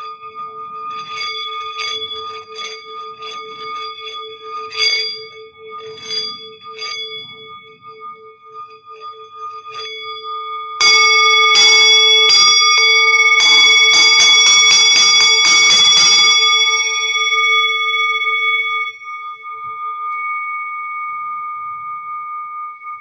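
Singing bowl ringing with a slow wobbling hum, tapped lightly several times. About eleven seconds in come five seconds of loud, rapid strikes, and then the bowl rings on, slowly fading.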